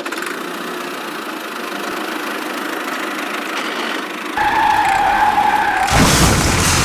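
Vehicle engine running. About four seconds in, a steady high tone joins it for about a second and a half. A loud burst of noise follows about six seconds in.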